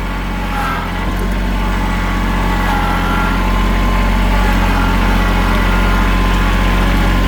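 An engine running steadily, growing louder about a second in and again around three to four seconds in.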